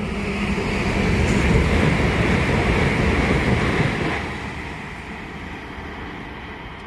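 A train passing: the rumble and rail noise build to their loudest over the first few seconds, then fade away from about four seconds in.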